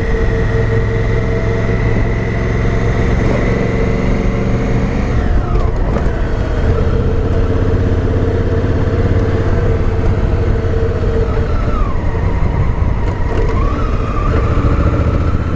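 Honda Africa Twin's parallel-twin engine running while riding, with road and wind noise. The engine note drops about five seconds in, then dips and climbs again near the end.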